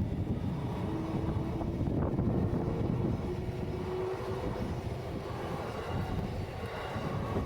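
Electric commuter train running past on the tracks: a steady low rumble, with a faint whine that starts about a second in and rises slowly over a couple of seconds.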